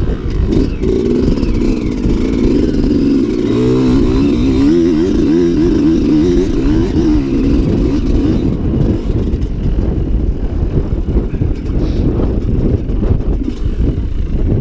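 Dirt bike engine running, its pitch rising and falling with the throttle between about four and seven seconds in, over a steady low rumble.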